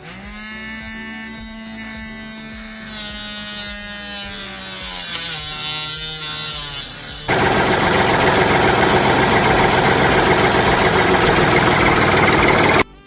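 Small DC motor of a DIY toy tree-cutter machine running with a steady whine, its pitch dropping slightly about five seconds in. About seven seconds in it gives way to a loud, rough, even noise that cuts off suddenly near the end.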